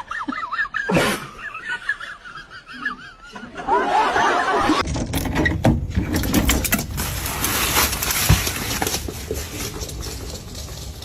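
People laughing, then from about halfway a stretch of noisy hiss with many short clicks.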